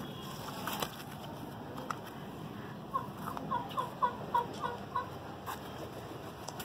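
A bird calling: a quick run of about eight short, similar calls, roughly four a second, starting about three seconds in.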